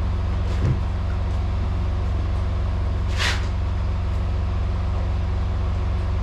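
Semi truck's diesel engine idling steadily, with a small knock under a second in and a short hiss about three seconds in.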